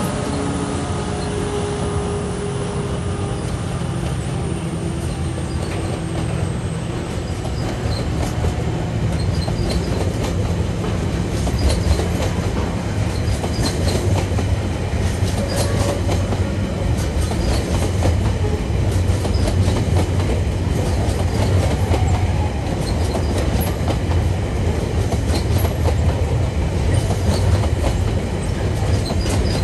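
A TasRail diesel-electric freight locomotive's engine drones past and fades over the first several seconds. Loaded container and flat wagons then roll by with a steady rumble and repeated clacking of wheels over rail joints.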